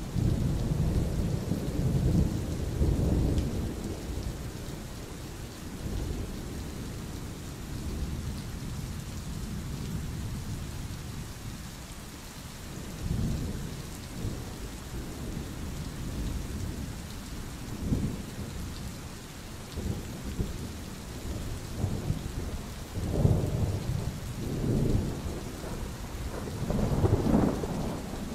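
Steady rain with rolling thunder: low rumbles swell and fade again and again over the hiss of the rain, heaviest near the start and in the last few seconds.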